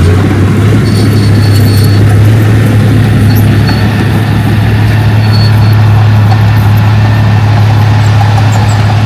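Diesel engine of heavy earthmoving machinery running steadily and loud, with a deep, unbroken hum.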